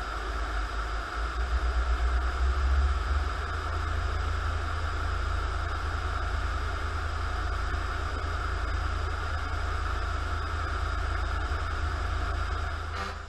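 Steady engine rumble and road noise of an emergency vehicle driving, heard from inside the cab; it cuts off suddenly near the end.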